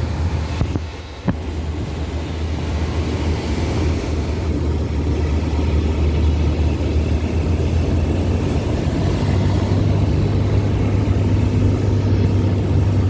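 Cessna 172's single piston engine and propeller droning steadily, with a haze of airflow noise. A sharp click about a second in, and around nine seconds in the drone rises slightly in pitch and gets a little louder.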